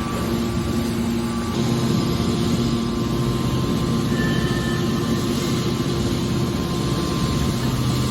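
Hydraulic scrap steel baler running: a steady mechanical hum with a few steady tones over machine noise.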